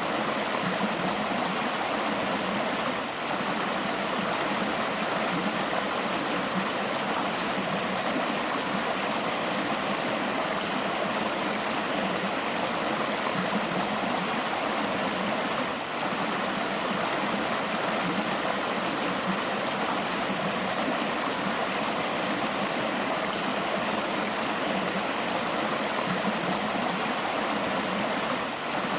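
River water flowing steadily: an even, continuous rush of running water with no breaks.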